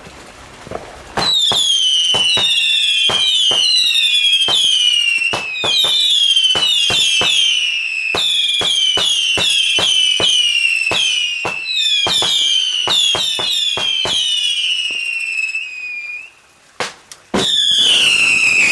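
Whistling fireworks fired in quick succession, about two a second. Each starts with a sharp bang followed by a shrill whistle that falls in pitch, and the whistles overlap. The volley stops about sixteen seconds in, two more bangs follow, and a last long whistle begins near the end.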